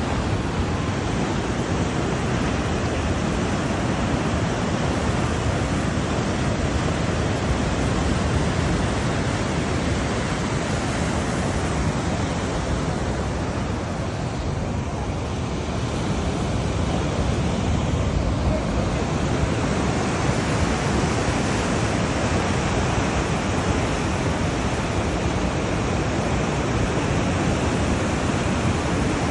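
Steady rush of Atlantic surf and wind, easing slightly about halfway through.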